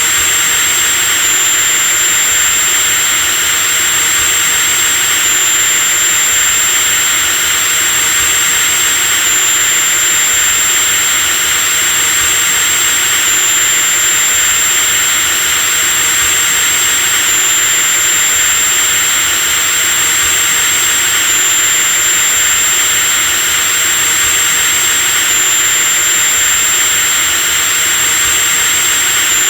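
Power drill running steadily at constant speed: a high-pitched whine over a steady hiss.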